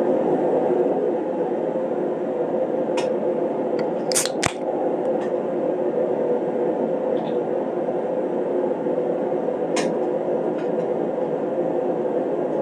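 Steady whir of a workshop heater's fan, with a few sharp clicks and clinks over it, the loudest pair about four seconds in.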